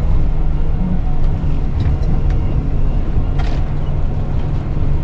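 Isuzu NPS 4x4 truck's diesel engine running steadily under way, a loud low drone, with a few faint light rattles.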